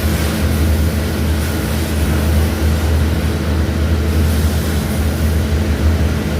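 Small bandsaw running steadily, its electric motor giving a constant low hum with the rush of the blade and wheels.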